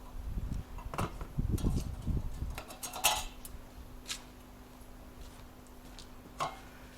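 Scattered knocks and clicks of tools and parts being handled during fireplace installation, with low rumbling handling noise in the first two and a half seconds, then quieter with a faint steady hum.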